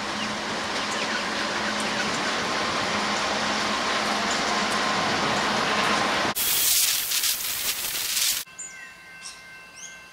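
Container freight wagons rolling past on the rails, a steady rush of wheel and rail noise with a faint hum. About six seconds in it cuts abruptly to a loud hiss for two seconds, then to quieter birds chirping.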